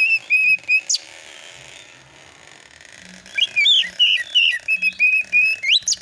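Oriental magpie-robin (kacer) singing. Two phrases of quick whistled notes, each ending in a sharp upward sweep, are separated by a pause of about two seconds.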